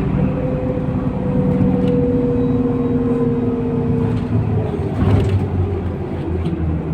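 MAZ-103 city bus running, its engine and drivetrain whine falling slowly in pitch over the first four seconds as the bus eases off, with a brief clatter about five seconds in.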